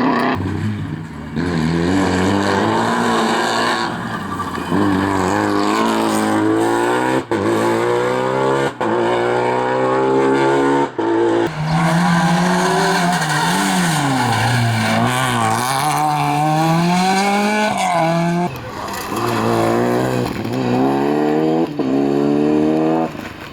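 Rally car engine revving hard and climbing through the gears, each rising pitch broken by a brief dip at the gear change, with the revs rising and falling through corners.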